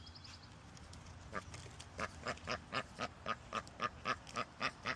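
Duck quacking in a fast, steady series of short calls, about four a second, starting faintly and settling into a regular rhythm about two seconds in.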